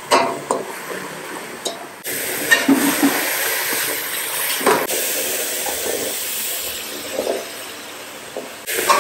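Ground beef frying in an aluminium wok: a steady sizzle that gets suddenly louder about two seconds in, with a few scrapes of a metal spatula against the pan. Near the end, diced potatoes tumble into the wok.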